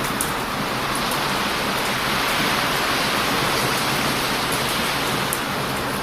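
Heavy surf breaking and washing on a beach, a steady rush that swells slightly partway through, with a few sharp pops from a crackling wood bonfire.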